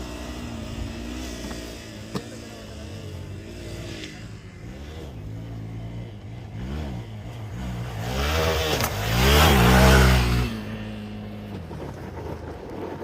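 Hero Xpulse 200 single-cylinder motorcycle engine revving up and down in repeated rises and falls of pitch as the bike is ridden off-road. It grows loud about eight to ten seconds in, then drops away.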